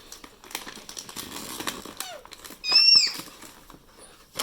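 Paper rustling and light clicks as a greeting-card envelope is handled and opened, with a short, high-pitched squeal about three seconds in.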